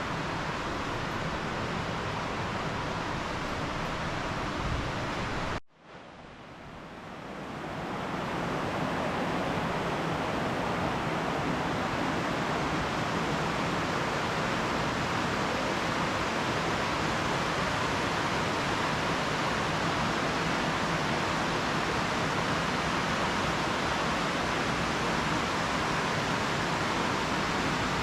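Steady rushing noise like flowing water. It cuts out suddenly about six seconds in and fades back up over the next couple of seconds.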